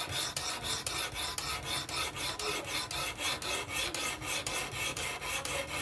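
Sharpening stone on a fixed-angle sharpener scraping back and forth along a Vosteed Acorn pocketknife's edge, in quick even strokes of about four a second.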